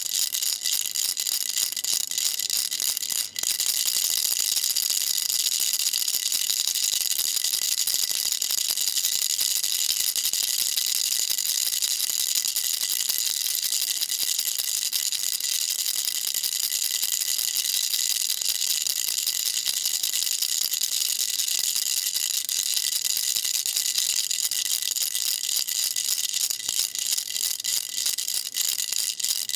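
Baby rattle shaken continuously: a dense, high-pitched rattling of small beads inside the toy, with a brief break about three seconds in.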